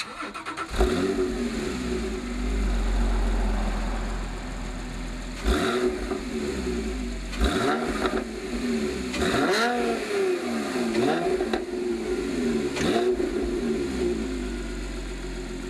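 Porsche 997.2 Carrera S 3.8-litre flat-six, through a Maxflo sport exhaust with headers, X-pipe and Maxflo mufflers, cold-started: it fires about a second in and settles into a fast cold idle. It is then blipped about five times, each blip a quick rise and fall in pitch, before dropping back to idle.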